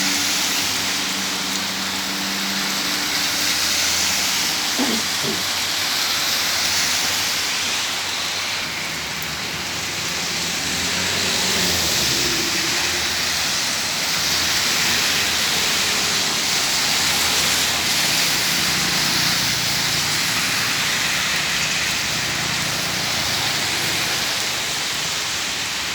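Heavy rain pouring, a steady hiss, with a low vehicle engine hum underneath.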